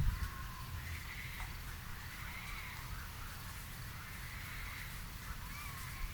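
Evening birdsong in a country garden: several birds calling in short curved chirps and phrases throughout, over a steady low rumble. A brief low thump right at the start.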